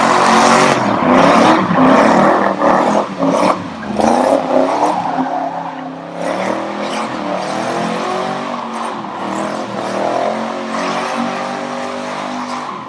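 Muscle car's engine revving and running hard, its pitch rising and falling repeatedly. It is loudest in the first four seconds, then settles into a steadier run.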